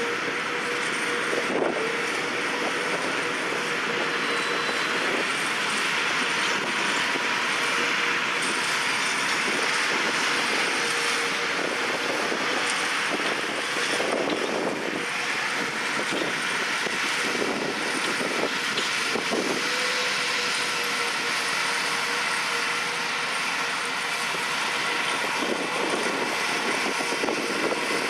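Farm machinery working in a peanut field: a tractor pulling a peanut combine, running as a steady mechanical rush with a constant whine. Occasional knocks and rattles sound over it.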